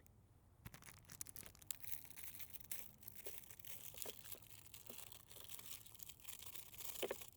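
A plastic cracker wrapper being handled and pulled at, crinkling and crackling with many small clicks, starting just under a second in; the packet is not tearing open easily.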